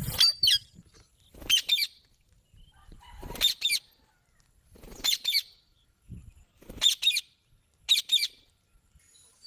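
Green parrot giving short, high-pitched screeching calls, six quick bursts of two or three notes each, repeated every second or two.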